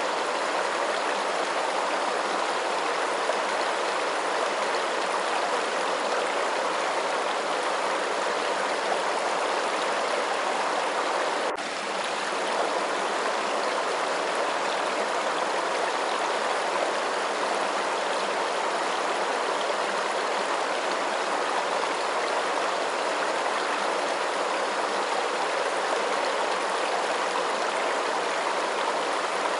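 Running water flowing steadily, an even rush with no changes except a brief dip in level about twelve seconds in.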